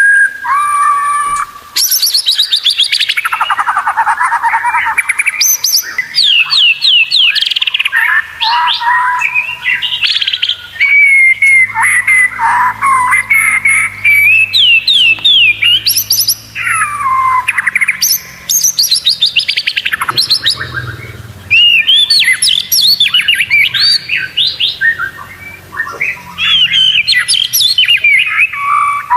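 White-rumped shama (murai batu) singing a long, varied song of rapid trills, whistled glides and harsh notes, almost without pause.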